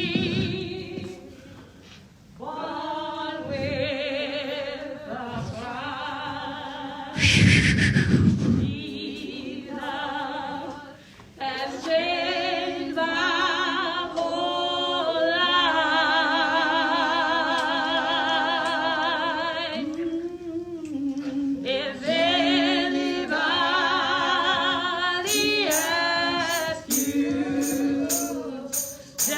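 Gospel singing in church, voices holding long wavering notes of a hymn of praise. A loud noisy burst comes about seven seconds in, and evenly spaced percussive strikes join in near the end.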